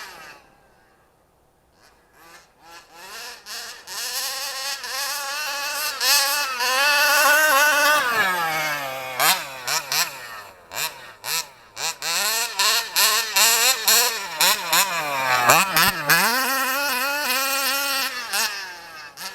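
HPI Baja SS radio-controlled truck's 29cc two-stroke engine being revved up and down under throttle, its pitch rising and falling again and again with short cut-outs. It comes in about two seconds in, after a near-silent start, and drops off throttle twice, about eight and sixteen seconds in.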